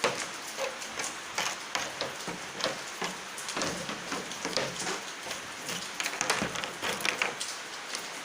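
Kinetic sand and plastic molds being handled: an irregular patter of small crackles and taps as the sand is pressed, scraped and crumbled.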